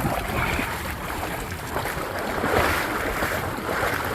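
Rushing floodwater: a steady, noisy wash that swells and eases.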